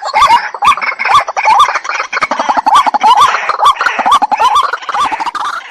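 White-breasted waterhen calling: a loud, fast series of harsh notes, each with a short hooked rise, repeated about two to three times a second.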